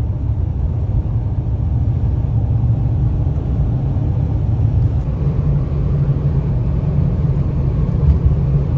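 Ram ProMaster camper van on the move: a loud, steady low rumble of engine and road noise.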